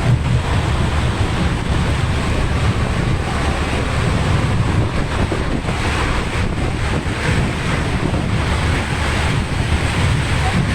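Wind buffeting an outdoor microphone: a steady, heavy low rumble with a hiss above it and no clear events.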